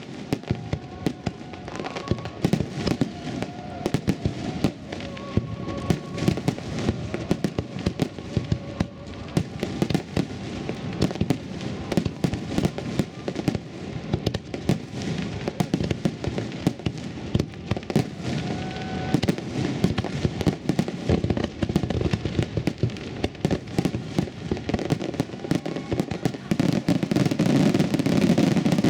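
Fireworks finale: a dense, continuous barrage of shell bursts and crackling, building to a heavier, louder volley near the end.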